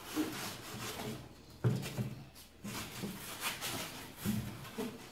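Irregular knocks, scrapes and rustles of wooden and cardboard pieces being handled and pushed into place by hand.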